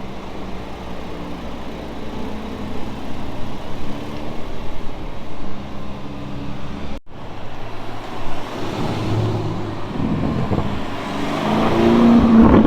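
Car engines running in street traffic with a steady low hum. There is an abrupt cut about seven seconds in, after which an engine grows louder toward the end as a car accelerates or revs.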